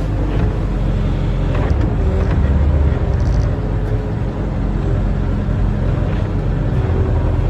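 A barge-mounted excavator's diesel engine runs steadily with a low rumble. It swells briefly about two and a half seconds in, and a few faint knocks come through.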